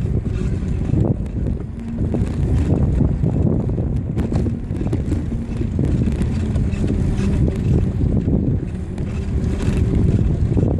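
Wind buffeting the microphone on a moving bicycle, a steady low rumble from the ride with small clicks and rattles through it.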